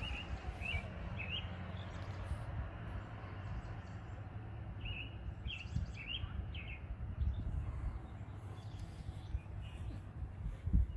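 Small birds chirping in short, quick upward notes: a few near the start and a cluster about five to seven seconds in, over a steady low rumble.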